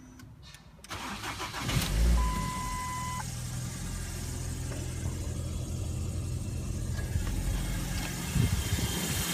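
Ford C-Max's 1.8-litre 16-valve engine cranked by the starter for about a second, catching with a flare about two seconds in, then settling to a steady idle. A short steady beep sounds just after it catches.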